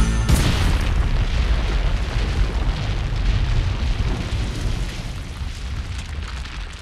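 Explosion sound effect: a blast at the start, then a long low rumble that slowly dies away.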